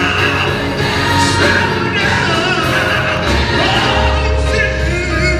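Gospel choir singing with instrumental backing: several voices hold long notes over a steady low bass.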